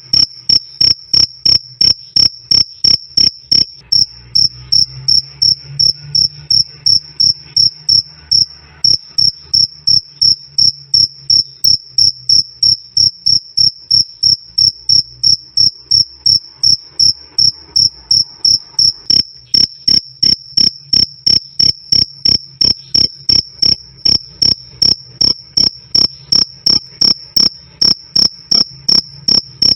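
A cricket chirping nonstop: a fast, even run of short, shrill chirps on one clear high tone, loud and clean.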